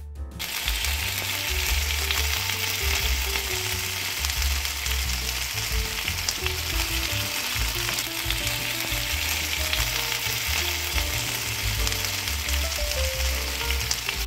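Potato gnocchi frying in olive oil in a nonstick frying pan: a steady sizzle.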